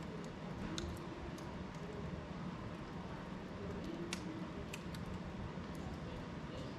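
Fire burning in a fireplace: a steady low rumble of flames with scattered sharp crackles and pops, the strongest about four seconds in.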